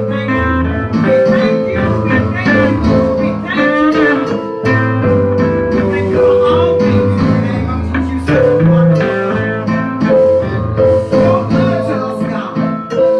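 Live gospel band music led by guitar, with held notes, bending lines and a bass line underneath.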